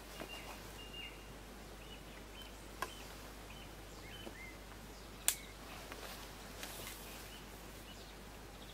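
Small birds singing in short high chirps against a steady outdoor background, with two sharp clicks, the second and louder one a little past halfway.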